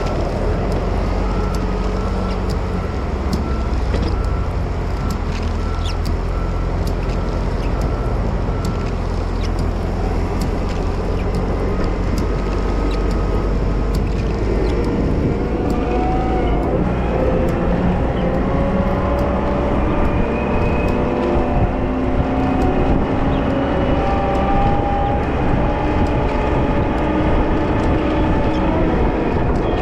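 Wheel loader's diesel engine running steadily while plowing snow. A row of short beeps at one pitch sounds for the first several seconds. From about halfway, several whining tones rise in pitch as the engine works harder.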